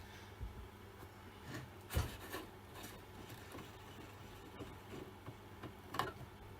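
Faint handling sounds as the Stihl 08S chainsaw's carburettor and air filter are worked on by hand: light rubbing and small knocks, with a sharper knock about two seconds in and another near the end.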